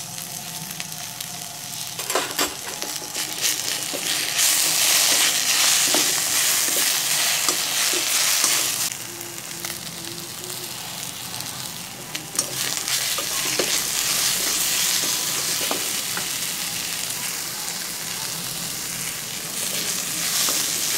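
Minced soya chunks sizzling in oil in a metal wok while a steel slotted spatula stirs them, scraping and clicking against the pan. The sizzle grows louder about four seconds in, eases around nine seconds, and swells again about twelve seconds in.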